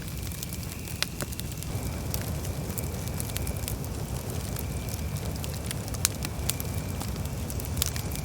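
Campfire burning: wood crackling with scattered sharp pops over a steady low rumble, the loudest pops about a second in and about six seconds in.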